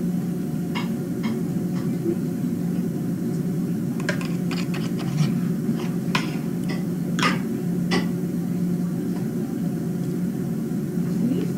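A steady low mechanical hum with scattered light clicks and taps, most of them in the middle of the stretch.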